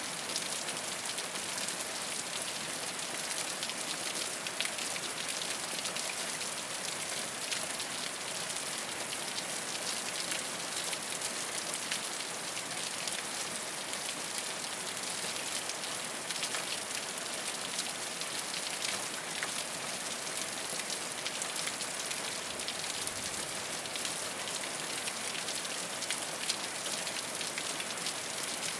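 Steady rain falling on a rooftop: an even hiss of rain, dense with small individual drop ticks, holding a constant level throughout.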